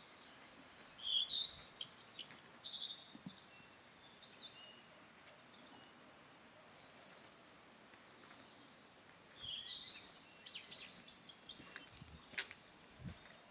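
Songbirds singing and chirping in garden trees: two bouts of quick high chirps, one from about a second in and one in the second half, over faint steady background noise. A single sharp click comes near the end.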